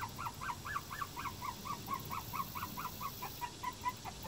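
A bird calling in a rapid, even run of short repeated notes, about four a second, that weaken and drop slightly in pitch near the end.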